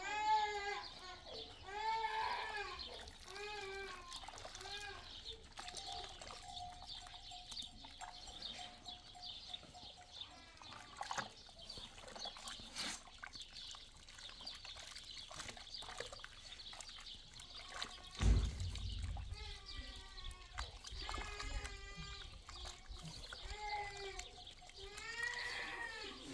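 Small livestock bleating: repeated short calls in the first few seconds, a quieter stretch, then more calls in the last third. A single thud about 18 seconds in is followed by a low rumble.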